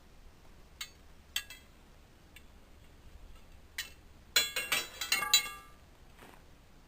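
Pieces of thin-wall steel EMT conduit, pressed flat into slats, clinking against each other as they are handled: a few light clicks, then a burst of ringing metal clinks about four and a half seconds in.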